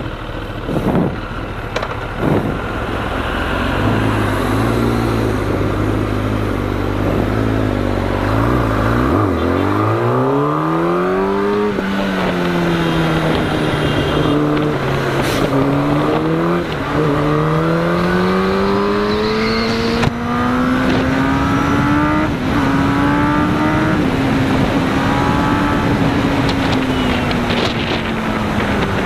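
Kawasaki ZX-10R's inline-four engine pulling away. It runs low and steady for several seconds, then revs up through the gears, with two upshifts close together near the middle where the pitch drops each time. It then climbs slowly and settles into steady cruising.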